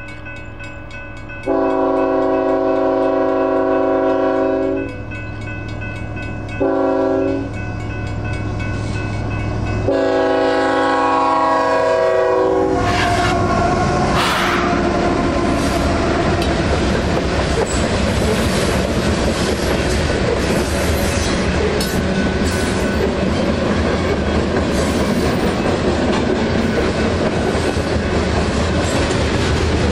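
Freight train locomotive horn sounding a long blast, a short one and another long one that drops in pitch as the locomotive goes by, with crossing bells ringing underneath. The train then rolls through the crossing with a continuous clatter of wheels over the rails.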